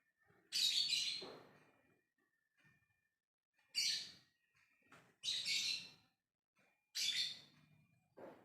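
Lovebird giving its 'ngekek' chattering call: four short, high, harsh bursts about a second and a half apart, with a fainter one near the end.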